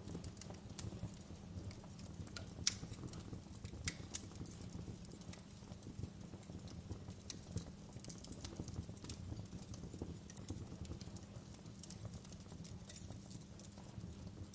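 Fire crackling: scattered sharp pops and snaps over a low steady rumble, with the loudest pops about two and a half and four seconds in.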